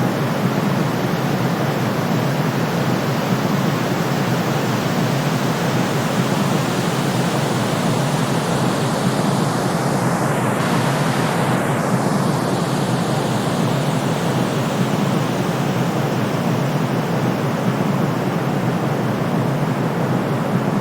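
Steady, full white noise for soothing a baby, a constant even hiss weighted toward the low and middle range. About halfway through, the upper hiss briefly takes on a sweeping, whooshing change in tone.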